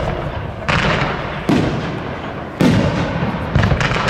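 Aerial fireworks shells bursting: about five loud booms in quick succession, each trailing off in a rumbling decay.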